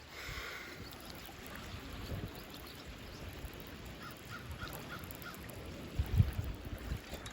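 A bird calling outdoors: one call right at the start, then a quick run of five short notes about four seconds in. Low thumps come near the end, over steady wind and water noise.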